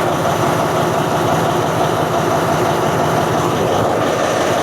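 Diesel locomotive engine running steadily, loud and close, with an even low hum and no rail clatter.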